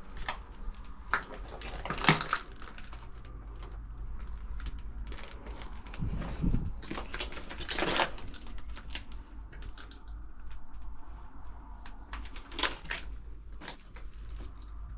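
Footsteps crunching and clicking over debris on the floor: irregular small clicks, with louder crunches about two seconds in, around seven to eight seconds, and again near the end.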